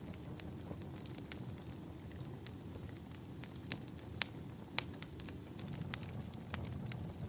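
Wood fire crackling in a fireplace: a steady low rumble of flames with sharp pops scattered through, the loudest two about four and five seconds in.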